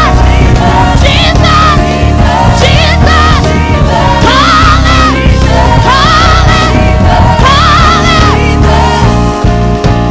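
Gospel praise-and-worship music: a live band with steady bass and keys under sung melody lines with vibrato, voices of a worship team or choir.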